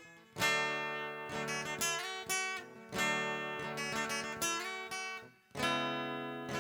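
Acoustic guitar strumming chords in a song's instrumental passage, each chord struck sharply and left to ring.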